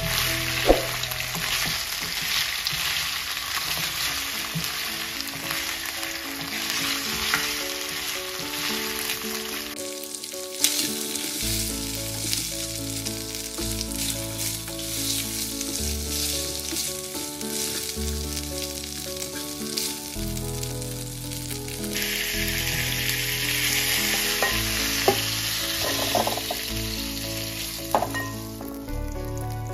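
Chicken pieces sizzling as they fry in oil in a nonstick karahi, stirred with a wooden spatula, with a few sharp knocks of the spatula against the pan. Background music with held notes plays underneath.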